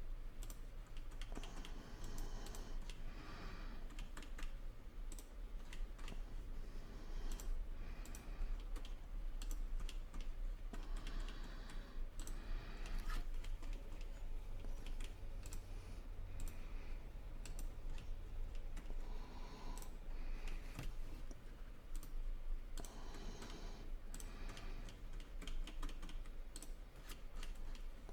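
Irregular clicking of a computer mouse and keyboard while operating CAD software, over a steady low hum.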